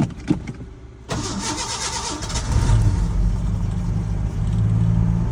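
Two sharp clicks, then the 1986 Ford F150's 4.9-litre (300 cubic inch) inline-six cranking on the starter from about a second in, catching about a second and a half later and settling into a steady idle: a cold start after sitting for weeks with three pumps of the gas pedal.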